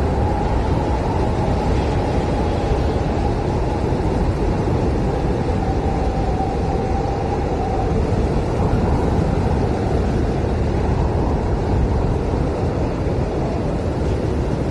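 Blizzard wind blowing hard and steadily with a deep rumble. A thin howling whistle rides over it in the first half and fades out about eight seconds in.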